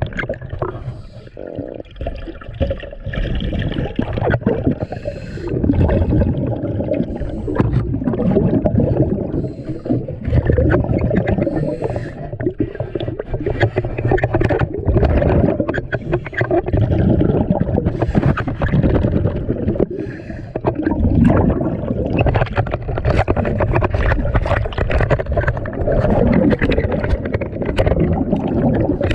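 Underwater water noise from a diver's camera: a continuous gurgling, rushing rumble with many small clicks, swelling and easing every few seconds.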